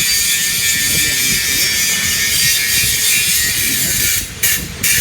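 Electric arc welding on structural steel: a loud, steady hiss that cuts off briefly twice near the end.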